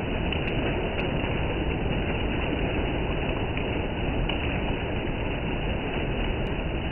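Heavy rain pouring steadily onto a road and puddles, a dense even hiss. A few sharp ticks of drops land close by.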